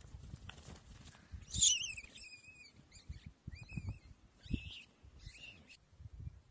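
A bird calling in a run of high, warbling chirps for about four seconds, loudest at first, over soft low thumps of footsteps on grass.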